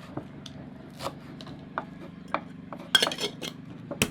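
Dishes and metal utensils clinking and knocking now and then, with a busier clatter about three seconds in and a sharp knock near the end, over a steady low hum.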